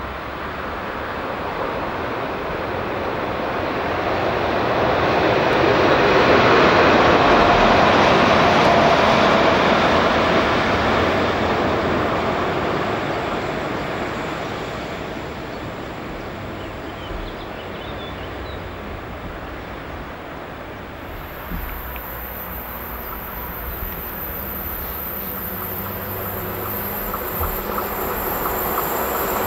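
A train passing by, its rumble swelling to a peak about seven seconds in and then fading away. About two-thirds of the way through a thin high whine appears, and near the end another train approaches with a low steady hum as the sound grows louder.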